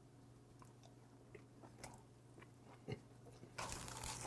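Close-miked mouth sounds of someone biting and chewing gwamegi, half-dried Pacific saury: faint wet smacks and small clicks, with one sharper click a little under three seconds in. From about three and a half seconds in, louder crackly chewing as a bite wrapped in dried laver goes into the mouth.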